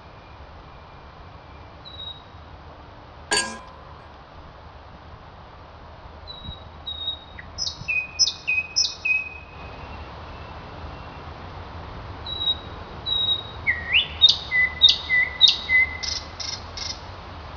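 Small birds chirping in scattered runs of short, high repeated notes, the busiest run near the end, over a steady low hiss. A single sharp click sounds about three and a half seconds in.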